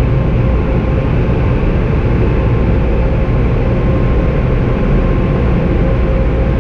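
Car wash tunnel air dryers blowing on the car: a loud, steady rush of air over a low rumble, with a faint steady whine.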